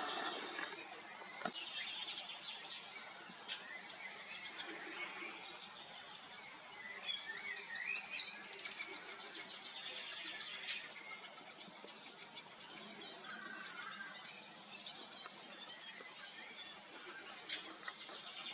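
Begging calls of a young great spotted woodpecker waiting to be fed: rapid runs of short, high notes in bursts, loudest about six seconds in and again near the end.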